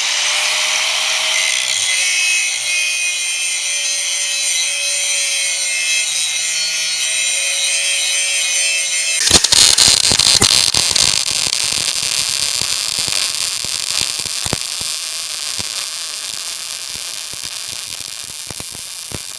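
Power grinder grinding rust off a steel loader bucket: a steady high whine at first, then from about nine seconds in a harsher, gritty grinding with many small ticks.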